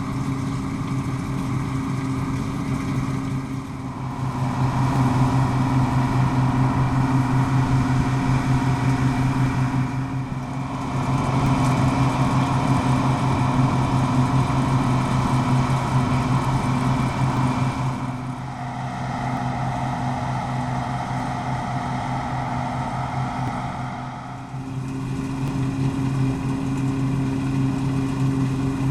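Deutz-Fahr M36.10 combine harvester running steadily while threshing barley: a deep, even engine hum under the rushing noise of the working machine. It grows louder about four seconds in, dips briefly, swells again, falls back after about eighteen seconds and rises once more near the end.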